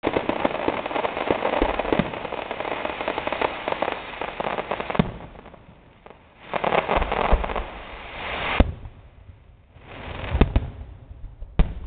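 Aerial fireworks bursting: a dense, rapid crackling for about five seconds, ending in a sharp bang, then a second spell of crackling that ends in another bang. Near the end come several separate sharp bangs.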